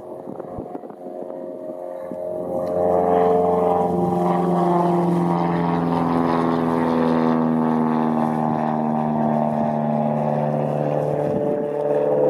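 Single-engine Cessna's piston engine and propeller running at takeoff power, growing louder about two seconds in, then falling steadily in pitch as the plane passes by.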